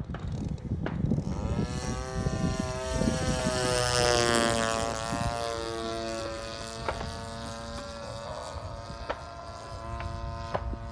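Sig Rascal 110 radio-controlled model airplane's engine and propeller flying past. The note is loudest about four seconds in and drops in pitch as the plane passes, then carries on steadily at a distance and grows louder again near the end.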